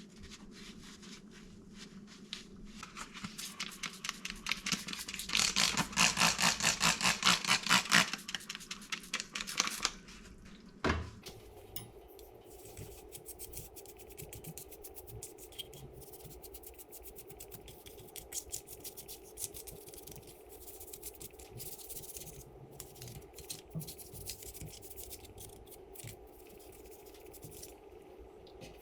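Rapid back-and-forth scrubbing of caked-on grime on a dirt-bike engine case, loudest a few seconds in. A sharp knock comes about 11 seconds in, then a quieter steady hum with light scratching.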